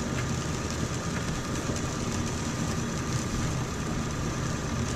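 Car running, heard from inside the cabin: a steady, even engine hum with road noise.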